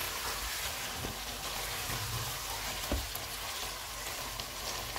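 Chicken pieces frying in hot oil with fried onions and ginger-garlic paste, a steady sizzle, as a slotted spatula stirs them, knocking against the pot a couple of times.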